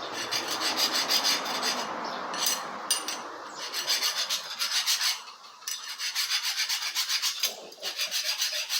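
Hand file rasping on steel in quick back-and-forth strokes, in runs broken by a few short pauses.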